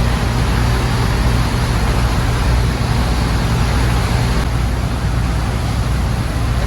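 Steady low drone of a ship's engine under an even, broad rush of noise, unchanging throughout.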